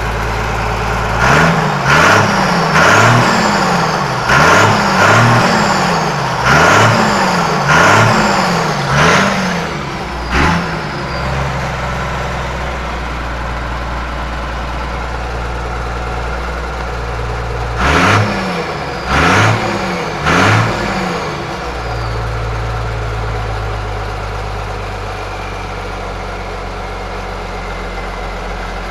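John Deere 3650 tractor's six-cylinder diesel engine idling and being blipped: about eight quick revs, each rising and falling back, then a pause at idle, then three more quick revs before it settles back to a steady idle.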